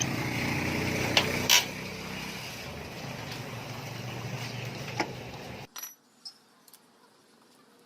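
A few sharp metallic clinks of tools and engine parts being handled, over a steady mechanical rumble. The rumble cuts off abruptly near the end, leaving only faint clinks.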